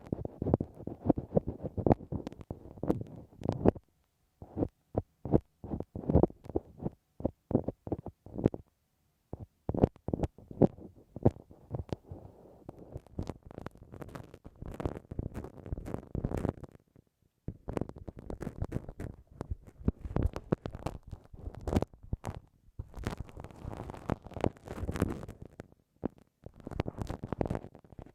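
Bamboo ear pick scraping and scratching inside the ear of a binaural dummy-ear microphone: rapid close-up strokes and clicks, broken by a few brief pauses.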